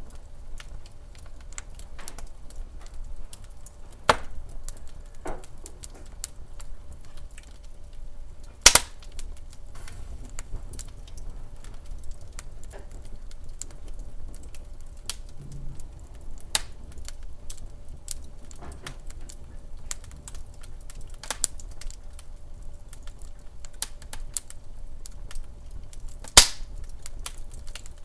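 Wood fire crackling in a fireplace: irregular sharp clicks and snaps, with three louder pops about four, nine and twenty-six seconds in, over a faint low rumble.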